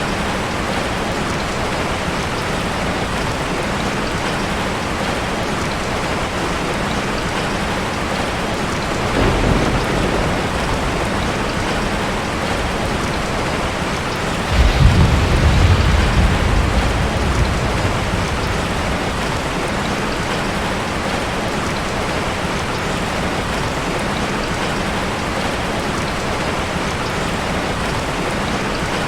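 Steady rain falling, with two low thunder rumbles: a faint one about a third of the way in and a louder one that starts suddenly about halfway and dies away over a few seconds.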